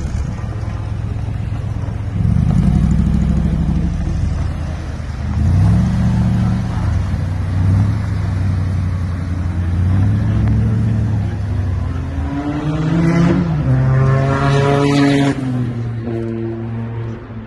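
AK Cobra replica's engine idling and being blipped, the revs rising and falling every two to three seconds. Near the end it is held in a longer rev that climbs higher before dropping back to idle.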